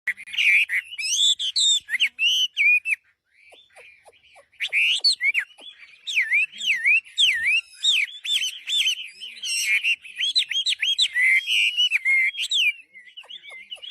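Hwamei (Chinese hwamei laughingthrush) singing a loud, varied song of whistled notes that swoop up and down, with a short pause about three seconds in, then a fast run of repeated swooping notes.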